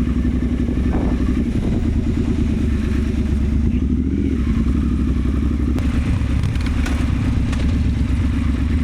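Triumph Scrambler 1200 parallel-twin motorcycle engine running steadily, loud and close, with a rapid even pulsing beat; it cuts off suddenly at the end.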